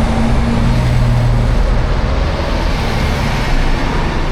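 Busy street traffic: steady road noise with a low rumble, and a vehicle engine humming close by for the first second and a half.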